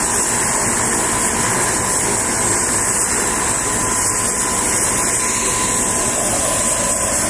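Turboshaft helicopter running on the ground with its rotors turning: a steady turbine whine over a constant rushing noise.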